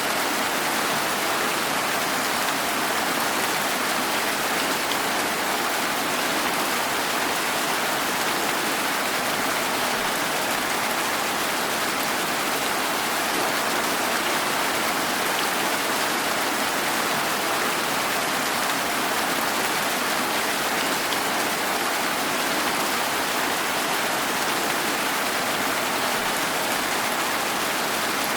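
Steady rain falling, an even hiss of many drops with no thunder and no change in strength.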